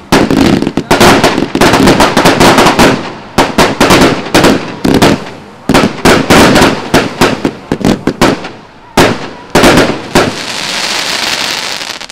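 Haokan Fireworks 'Way of the Dragon' fireworks cake firing: rapid volleys of shots launching and bursting with sharp bangs. After the last two bursts, about nine and a half seconds in, a steady fizzing crackle of burning stars runs on and dies away at the end.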